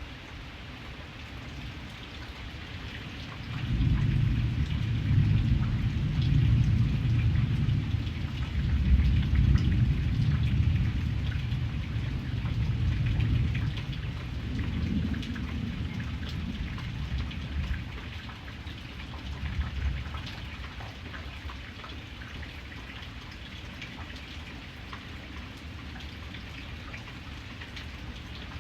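Steady rain with individual drops pattering, and a long low roll of thunder that starts suddenly about four seconds in and dies away over some fifteen seconds.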